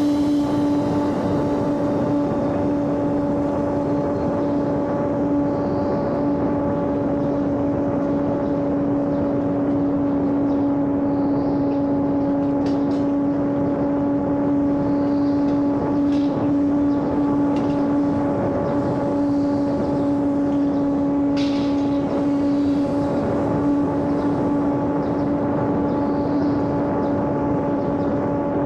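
Electric motor and propeller of a small homemade radio-controlled airplane running at steady throttle in flight, a constant whine that holds one pitch.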